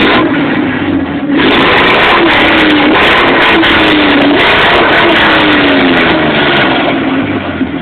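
Chevrolet Blazer engine revved hard through a loud exhaust: a short blip at the start, then from about a second and a half in it is held at high revs, the pitch sagging and recovering, and it eases off near the end.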